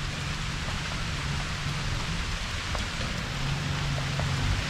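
Heavy rain pouring steadily, with a few separate drops ticking now and then. A steady low hum runs underneath.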